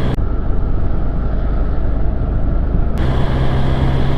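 BMW S1000XR inline-four engine running at a steady speed under the rider, mixed with wind and road noise. The sound turns muffled for about three seconds in the middle.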